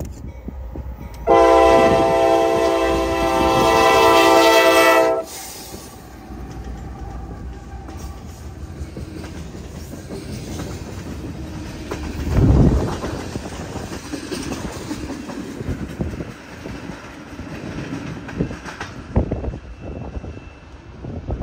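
Diesel freight locomotive's multi-chime air horn sounding one long blast of about four seconds, then the train rolling past: a steady rumble of wheels on rail with clickety-clack from the tank cars and hoppers, and a loud low thump about twelve seconds in.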